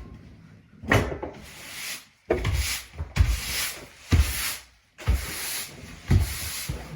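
Repeated scraping and rubbing of wood and debris, stroke after stroke about a second apart, each stroke starting with a knock.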